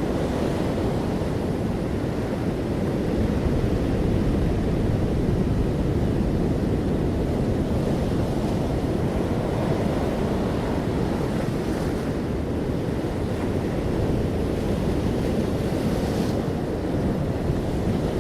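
Ocean waves breaking and washing on the shore in a continuous steady surf, with a low deep rumble, and a slightly brighter hissing wash about sixteen seconds in.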